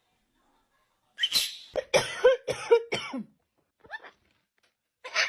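A parrot mimicking a person's cough: a run of about five short coughs over two seconds.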